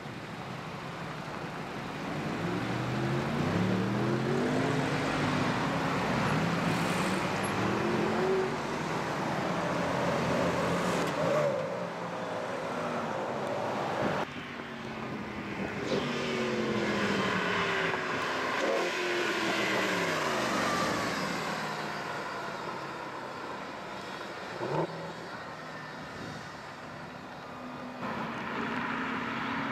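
High-performance car engines revving and passing by, their pitch rising and falling in several waves, with a few abrupt changes that sound like cuts between shots.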